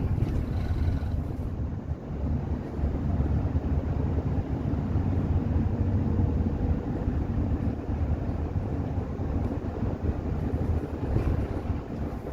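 Steady low rumble of engine and road noise inside the cabin of a moving bus.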